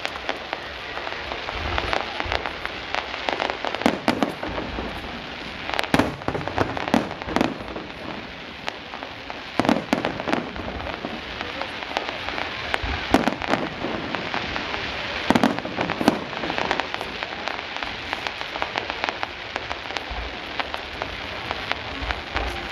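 Aerial fireworks display: shells bursting with a steady crackle like falling rain, broken by sharp bangs every second or two.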